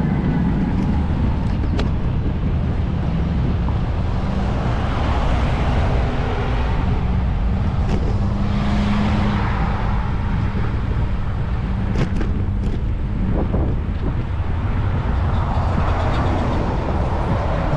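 Road traffic heard from a moving bicycle: cars swelling and fading as they pass, over a steady low rumble of wind on the microphone and road noise. A few sharp clicks about two-thirds of the way through.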